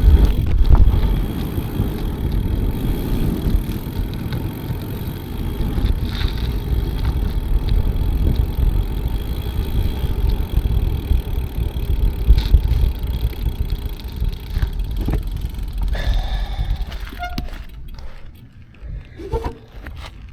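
Bicycle being ridden, with wind rushing over the microphone and tyre noise making a steady low rumble that dies away near the end as the bike slows, leaving a few clicks.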